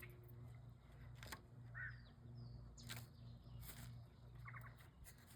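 Near silence: a low steady hum, with a few faint light clicks and a couple of brief, faint bird chirps about two seconds in.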